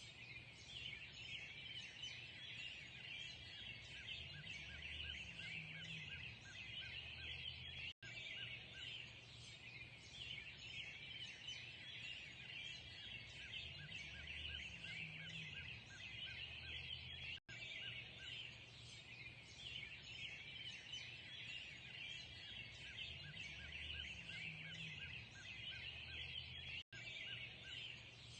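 Dense chorus of many birds chattering and calling together, with no single song standing out. The recording is a short loop that repeats about every nine and a half seconds, with a brief dropout at each seam, three times.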